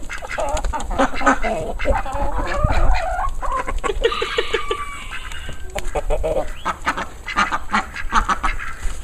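Farm poultry calling over one another in a steady stream of short, overlapping calls.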